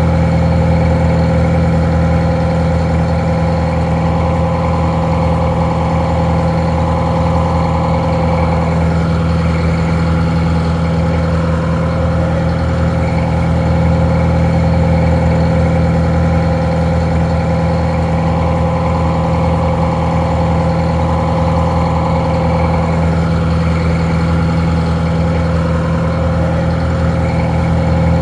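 Detroit Diesel 4-71 two-stroke inline-four diesel idling steadily.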